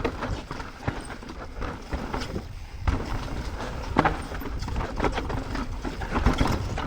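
Mountain bike clattering down a rough downhill trail: irregular knocks and rattles from the wheels hitting rocks and roots and the chain and frame slapping, over a steady low rumble.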